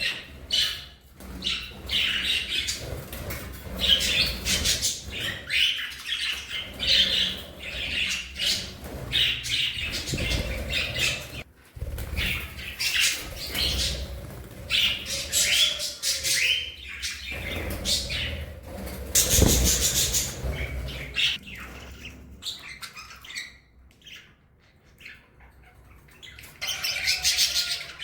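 A flock of budgerigars (budgies) chattering and chirping in quick, dense warbles, with a few low thuds. The chirping thins out for a few seconds near the end, then picks up again.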